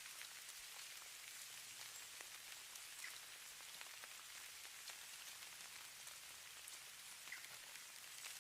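Falling snow as a sleep ambience: a faint, steady high hiss of fine patter, sprinkled with tiny soft ticks.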